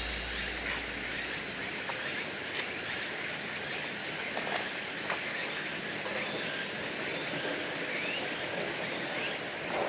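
Outdoor forest ambience: a steady rushing noise with short, high chirps repeating several times a second over it.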